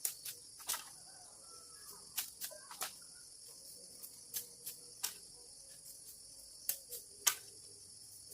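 A steady high-pitched insect chorus, with sharp knocks at irregular intervals, about fifteen of them, the loudest a little over seven seconds in.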